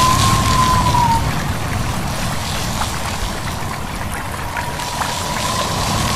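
A stream babbling steadily over rocks, mixed with wind and rustling leaves, with small scattered water ticks. A faint thin whistle-like tone fades out about a second in and comes back near the end.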